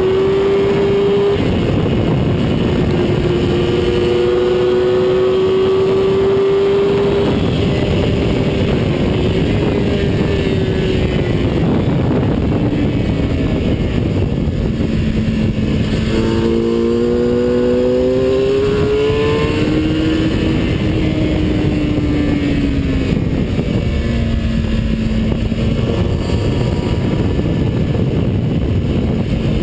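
A racing vehicle's engine running hard at speed, heard from an onboard camera under heavy wind rush. The engine note holds high for the first several seconds and falls about halfway through as the vehicle slows for a corner. It then climbs again under acceleration and settles lower near the end.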